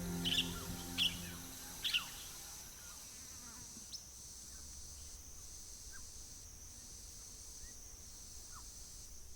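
Birds giving short, sharp falling chirps, several in the first two seconds and a few fainter ones later, over a steady high insect drone.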